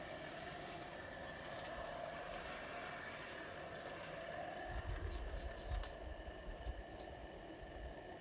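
Wilesco Lucas live-steam model engine running under steam, a steady hiss with a faint whine. A low rumbling comes in about halfway through.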